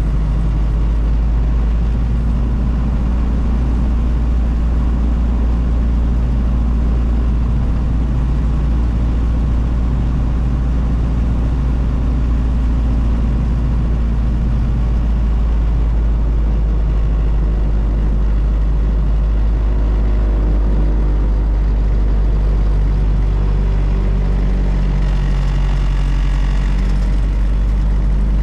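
1932 Ford Model B's four-cylinder engine running steadily under way, heard from inside the cab over a constant deep road rumble. Near the end a higher rushing sound joins for a few seconds.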